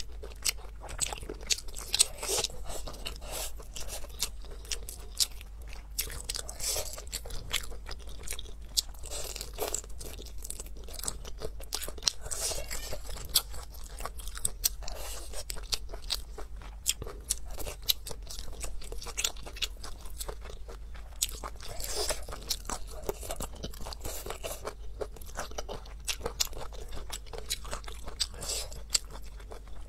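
A person chewing and crunching mouthfuls of food close to the microphone. Sharp, crisp crunches and wet chewing clicks go on without a break, with louder bites now and then.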